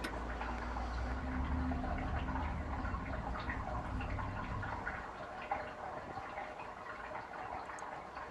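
Water heating in a Klarstein Brauheld 45-litre mash kettle, with scattered small pops and ticks; a low rumble underneath fades out about five seconds in.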